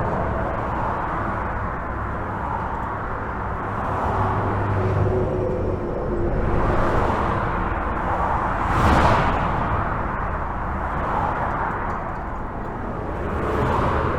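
Highway traffic heard from under a bridge: a continuous rush of tyres and engines over a low rumble. Several vehicles swell past one after another, the loudest and closest about nine seconds in.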